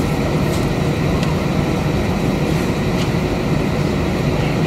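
Cabin noise of an Airbus A320-232 on the ground after landing, its IAE V2500 engines at idle: a steady low rumble with a few faint clicks.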